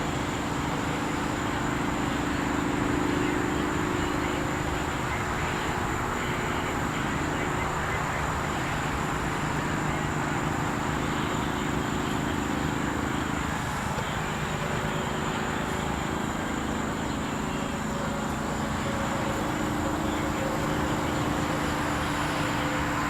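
Steady outdoor background: a low mechanical hum that swells and fades, under a constant high-pitched insect trill.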